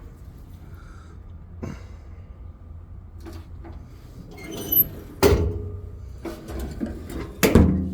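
Two loud knocks, about five and seven and a half seconds in, of a truck's service-body compartment doors being shut, with lighter clicks of the latches, over a low steady hum.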